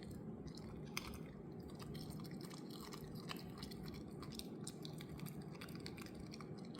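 Poodle chewing a piece of raw carrot, with many quick crisp crunches.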